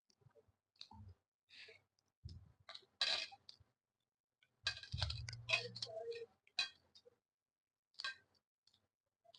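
Close-up eating sounds of rice and paneer curry: chewing and wet mouth clicks, with light clinks of dishware, in irregular bursts and a busier stretch about five seconds in.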